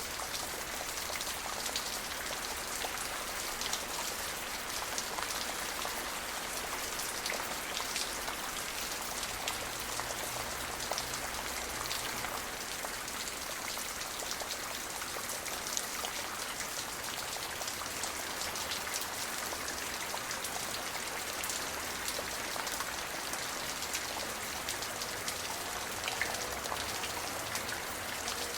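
Steady rain falling on a surface, a dense patter of many individual drops over an even hiss.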